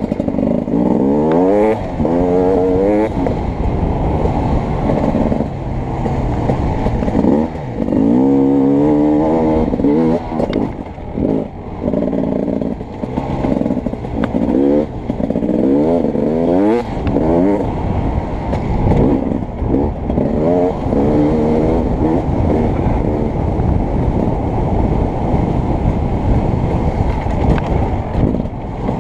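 Beta 300RX two-stroke dirt bike engine being ridden hard, its pitch climbing in repeated rising runs through the gears and dropping back as the throttle is rolled off.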